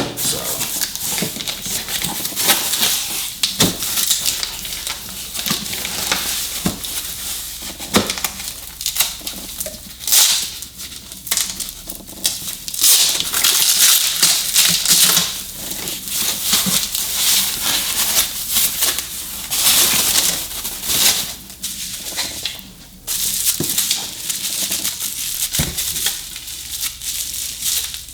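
Packaging crinkling and rustling as parts are unwrapped and handled from a box, with a few short knocks along the way.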